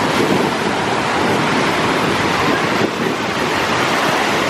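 Ocean surf washing on a beach, a steady rush, with wind buffeting the microphone.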